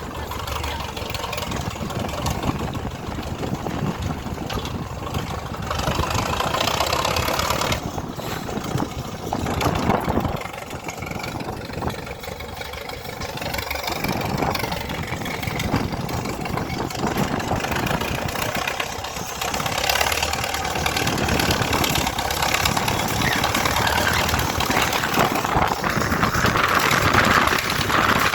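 DT-75 crawler tractor's diesel engine running steadily, growing somewhat louder near the end.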